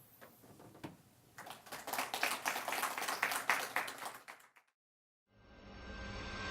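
Audience applauding for about three seconds, then cutting off abruptly. A rising swell of sound begins near the end.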